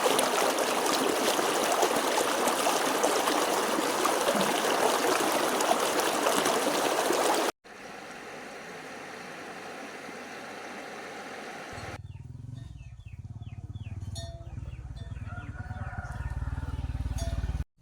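Stream water rushing loudly and steadily for about seven seconds, then after a sudden cut quieter steady background noise, and from about twelve seconds in a low rumble that grows louder under high bird-like chirps.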